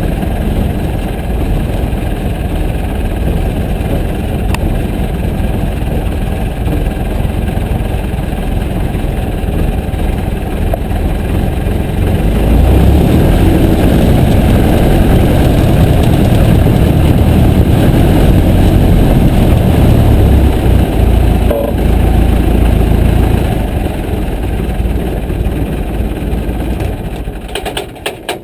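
Piper J3 Cub's engine running, growing louder about twelve seconds in as the power comes up, then easing off and dropping away sharply near the end.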